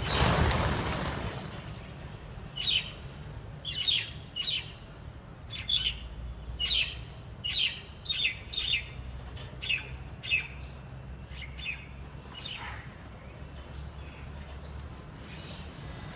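Jungle mynas calling: a run of about a dozen short, sharp calls, one or two a second, starting a couple of seconds in and thinning out after about ten seconds, over a steady low hum. A brief rush of noise at the very start.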